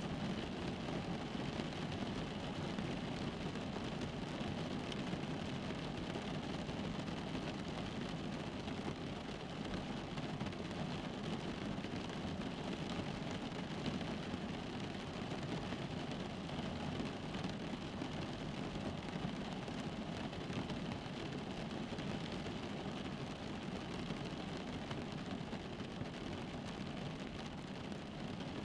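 Rain falling steadily on a car's roof and windows, heard from inside the car as an even, unbroken wash of drops.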